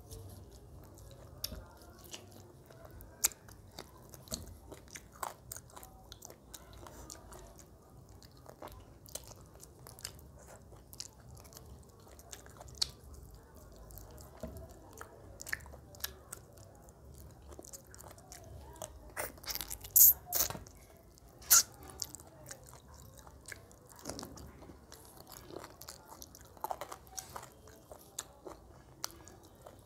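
Close-up chewing and biting of a person eating a spicy chicken leg by hand, with many short clicky mouth sounds. A few louder sharp clicks come about two-thirds of the way through.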